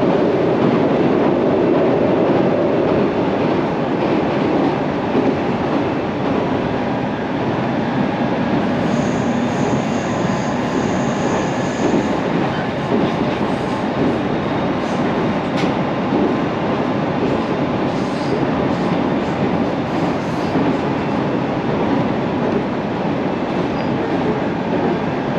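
Train running on rails: a loud, steady running noise throughout, with a thin high whine from about nine to twelve seconds in.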